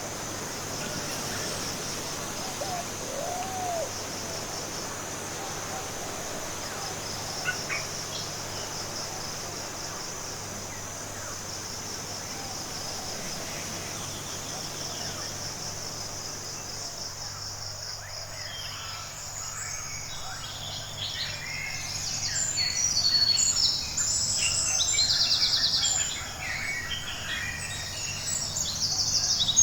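Forest ambience: a steady, high-pitched insect trill, joined about halfway through by a chorus of many small birds chirping and calling, which grows louder near the end.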